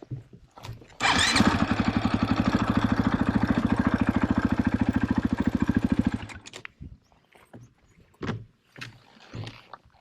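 KTM trail motorcycle engine starting up, running at idle with a quick even beat for about five seconds, then switched off abruptly. A few faint knocks follow.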